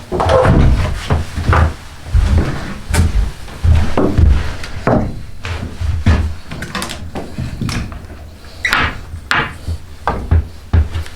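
Hand tools working a yew bow stave: irregular scraping strokes on wood mixed with wooden knocks and thumps.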